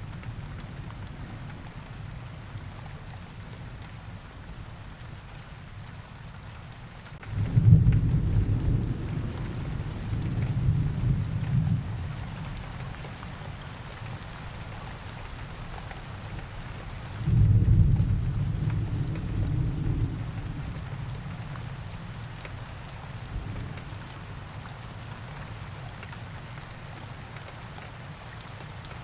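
Steady rain with two low rolls of thunder, the first about seven seconds in and the second about ten seconds later, each fading away over a few seconds.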